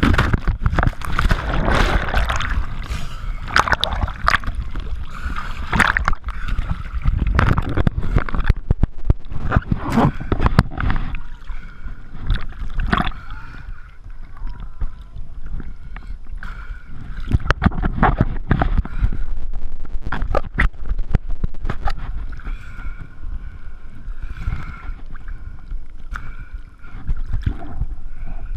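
Speedboat running at speed, with water rushing past the hull and wind buffeting the microphone, broken by irregular thumps and gusts; a faint steady motor whine comes through in the second half.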